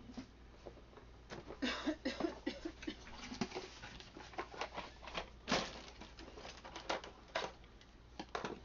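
Glass pickle jars and lids being handled on a counter: a string of clicks, knocks and light rattles, with a few short squeaks about two seconds in.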